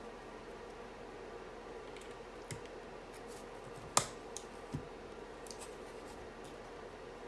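A few scattered sharp plastic clicks and taps from mechanical keyboard parts being handled, not steady typing. The loudest click comes about four seconds in, over a faint steady hum.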